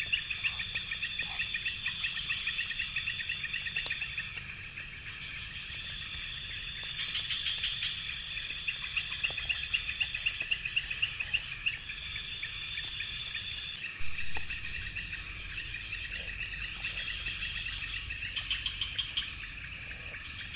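Night chorus of forest insects such as crickets: a steady, rapidly pulsing chirping overlaid with a continuous high-pitched trill. There is a brief soft knock about two-thirds of the way through.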